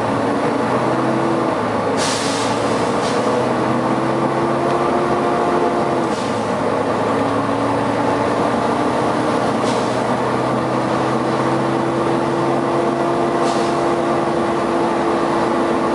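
Volvo B9TL bus running, its engine and cooling fan making steady tones that step up and down in pitch a few times. Short hisses from the air system come several times, the strongest about two seconds in.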